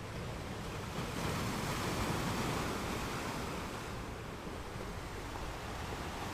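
Ocean surf: a wave swells about a second in and washes out over the next few seconds.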